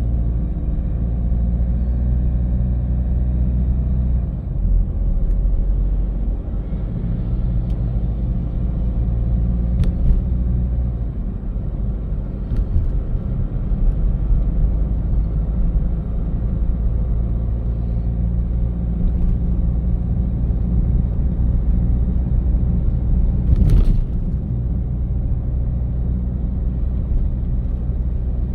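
A car driving at city speed, with a steady low rumble of engine and road noise. There is a brief knock near the end.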